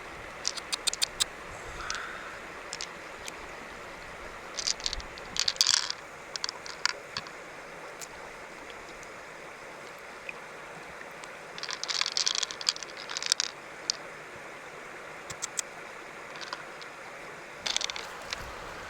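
Steady rush of river water, with scattered sharp clicks and short splashy bursts in a few clusters, from hands or shells moving in the water.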